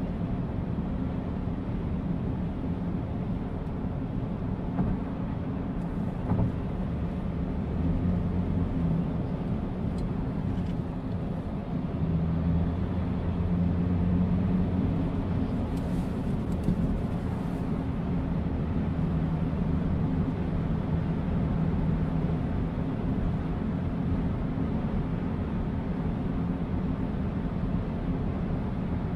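Car engine and road noise from a vehicle driving, a steady low drone whose engine note grows stronger and shifts a little about a third of the way in and again near the middle.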